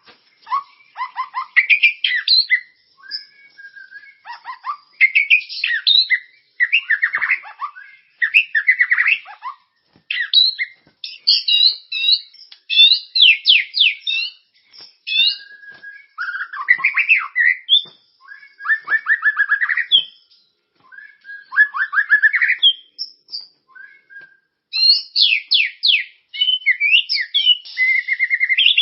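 Recorded songbird song in short, varied phrases of whistles, rapid trills and chirps, separated by brief pauses. It is a masteran tutor recording, made to teach captive white-rumped shamas new song.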